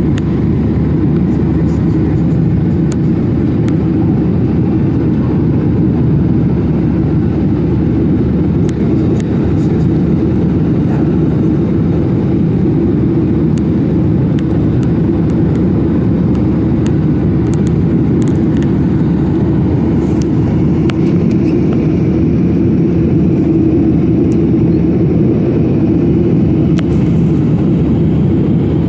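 Airliner engines and rushing air heard from inside the cabin during the climb after takeoff: a loud, steady, deep roar with a faint held hum.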